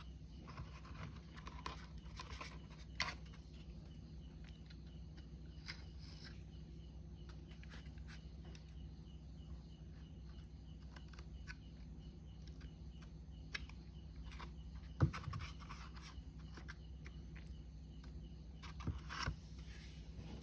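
Scattered small clicks, taps and light scrapes of hands working on a miniature model house and its base board, over a steady low hum. The sharpest tap comes about 15 s in, with a quick cluster of clicks near the end.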